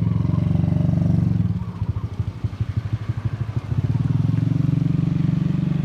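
Small motorcycle engine running close by. About a second and a half in it eases off to a slower, separate putter, then picks up again to a steady run a couple of seconds later.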